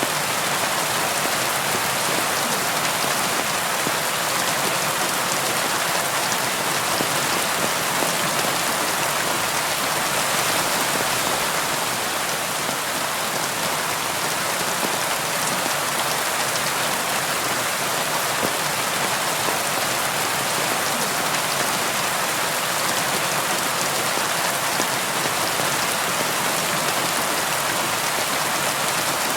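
Steady rain falling on a surface, an even hiss of many raindrops with no thunder or other sounds.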